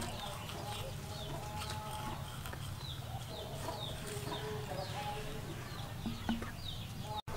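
Birds calling: many short, quick falling chirps, with lower held calls between them, over a steady low hum. The sound cuts out for an instant near the end.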